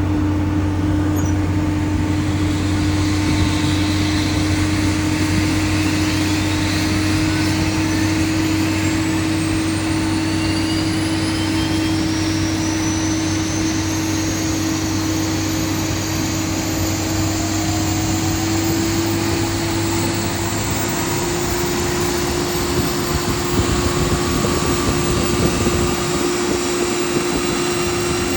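Rolls-Royce RB211-535 turbofan on a Boeing 757 starting up: several turbine whines rise slowly in pitch as the engine spools up, over a loud steady hum. A low drone underneath stops about two-thirds of the way through.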